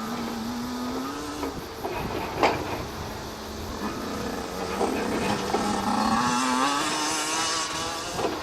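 Motocross dirt bike engine revving up, its pitch climbing near the start and again more strongly a few seconds later, with a sharp knock about two and a half seconds in.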